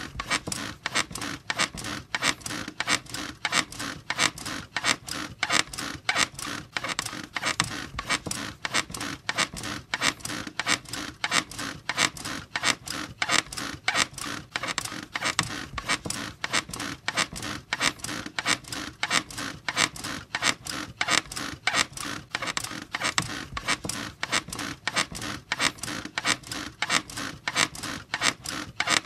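Bed squeaking in a steady, even rhythm, with sharp repeated creaks of the frame and springs, a couple each second.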